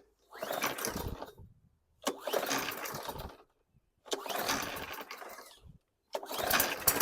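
Craftsman M100 lawn mower's Briggs & Stratton 500-series engine being pull-started on a dose of carb cleaner: four recoil pulls, each about a second long and cranking the engine briefly. On the fourth pull near the end it catches and begins to run. The engine will not keep running on its own, which the repairer puts down to a carburetor that needs cleaning.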